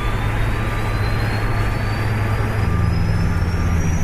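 Airbus A380 engine start heard from the cockpit: a Rolls-Royce Trent 900 turbofan spooling up, a high whine rising slowly and steadily over a steady low drone. The drone shifts in pitch about two-thirds of the way through.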